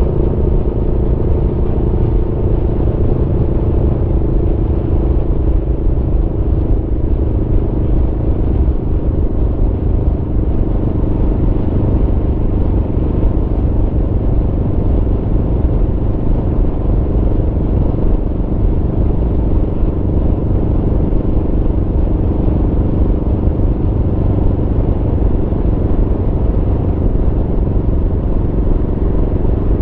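Aprilia Tuono V4's V4 engine running under way at a fairly steady speed, its note holding nearly level, over a heavy low rumble.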